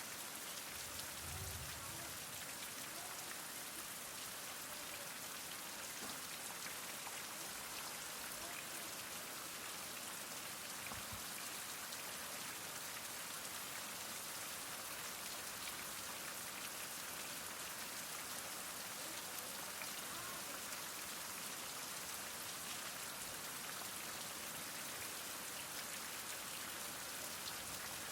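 Heavy rain falling steadily, a dense even hiss with scattered drops ticking on surfaces.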